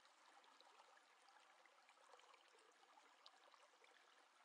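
Near silence: faint room hiss with a few tiny scattered ticks.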